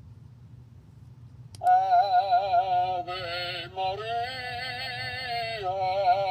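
Opera Corn noisemaker toy singing a loud, wavering operatic voice with strong vibrato, starting with a click about a second and a half in and shifting to new held notes twice.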